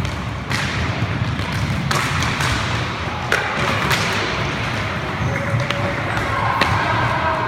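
Roller hockey play: sharp stick and puck knocks every second or so over a steady low rumble of skates on the rink floor, with players' voices calling out over the last couple of seconds.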